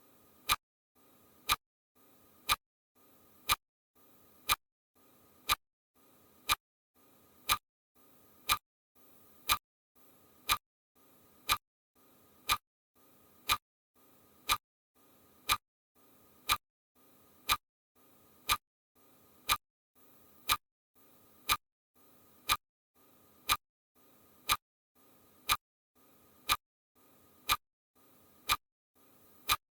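Steady, even ticking: one sharp click each second, with a faint hiss between clicks.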